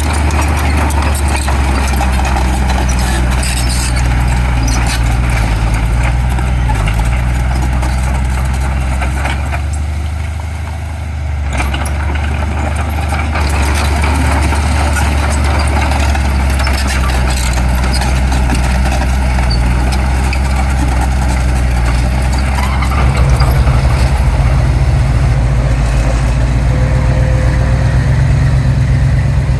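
Heavy diesel engines of construction machinery running with a steady low drone. The sound eases briefly about ten seconds in and grows louder about twenty-three seconds in.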